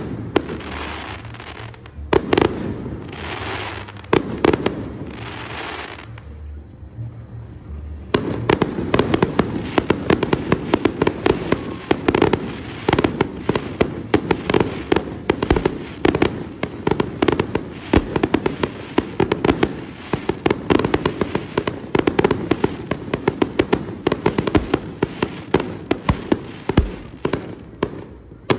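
Aerial fireworks display: a few separate shell bursts bang, each trailing off over a second or so, then from about eight seconds in a dense, rapid barrage of bangs and crackles goes on without a break.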